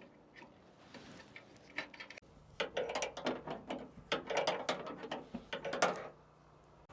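Hand ratchet wrench clicking in quick runs of strokes, starting a couple of seconds in and stopping shortly before the end.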